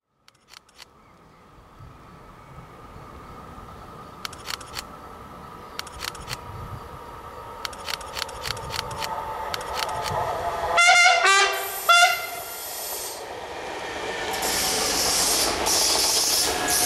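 A train approaching, its noise slowly growing with sharp ticks from the rails, sounds its horn twice about eleven and twelve seconds in, then passes close by, the wheel and rail noise loud.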